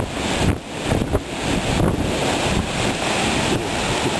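Severe thunderstorm wind driving hail and rain: a loud, dense, gusting rush, with wind buffeting the microphone.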